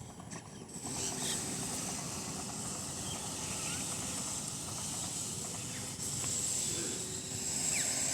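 Outdoor ambience: a steady low rumble of distant traffic under a high steady hiss, with a few faint, short bird chirps.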